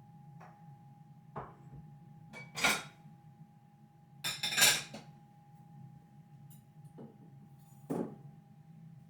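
Dishes and utensils being handled: a series of knocks and clinks, with two louder rattling clatters, over a steady low hum.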